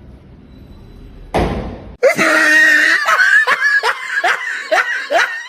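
A person laughing hard in quick repeated bursts, each one falling in pitch. It follows a short loud rush of noise about a second in.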